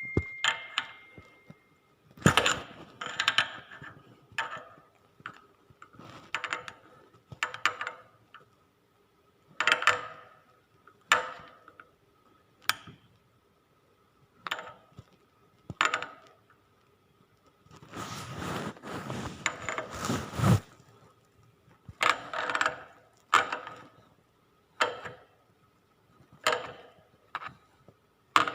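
Metal parts of a steering-shaft universal joint clinking and knocking as they are handled, with many separate sharp clinks that ring briefly. A rougher rubbing noise runs for a couple of seconds about two-thirds of the way through.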